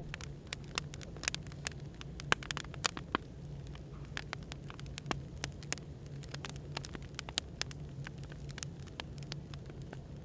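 Wood fire crackling, with frequent irregular sharp pops and snaps over a steady low hum and soft background noise.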